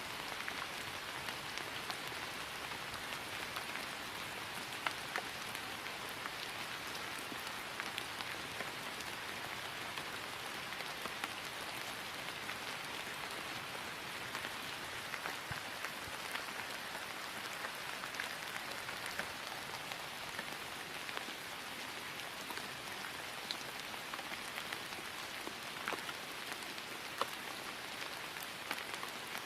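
Steady rain falling on grass: an even hiss with scattered, distinct drop taps.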